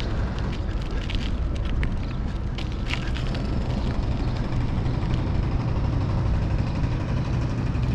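Steady rumbling wind and road noise from riding a bicycle, heaviest in the low end, with a few faint clicks.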